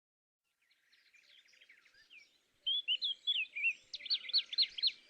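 Songbirds singing: faint twittering at first, then louder clear chirps and, near the end, a quick run of repeated whistled notes.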